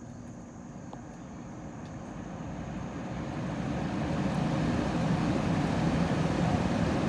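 1960s GE Hi-Thin Line window air conditioner running on its slow fan setting with the case off: the fan motor spins up and the rush of air grows steadily louder over the first few seconds, then holds, with a low hum underneath.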